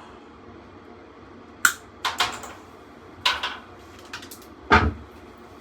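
Metal clinks and knocks of tools and sheet-metal parts being handled while a furnace blower assembly is taken apart: about five sharp hits spread over a few seconds, the last the loudest, with a dull thud.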